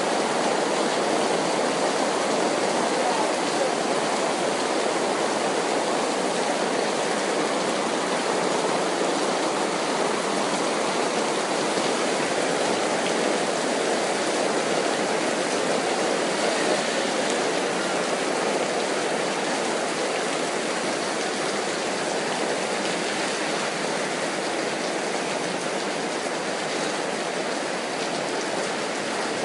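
Steady rainfall: an even hiss with no thunder claps, easing slightly toward the end.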